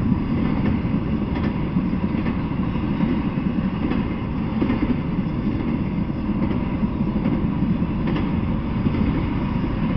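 Intermodal freight train cars carrying truck trailers rolling past on the rails: a steady rumble of wheels on track, with a few faint clicks.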